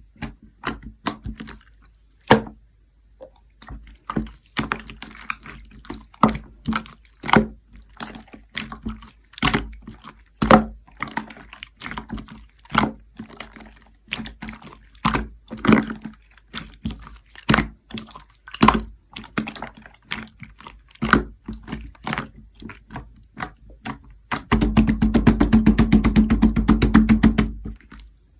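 Light purple clear slime being squished and pressed by hand, giving wet, sticky pops and clicks one after another. Near the end, a few seconds of fast continuous crackling as the slime is worked rapidly.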